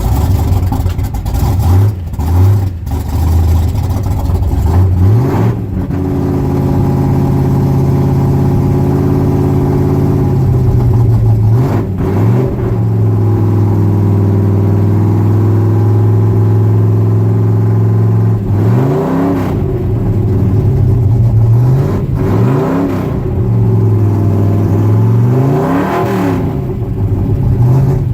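1966 Ford pickup's V8 engine running with the throttle being worked. It is raised about five seconds in and held, blipped once near the middle, and blipped four times in quick succession over the last ten seconds. The exhaust is freshly sealed, with header gaskets replaced and collector bolts tightened, and the owner judges that no exhaust leak is left.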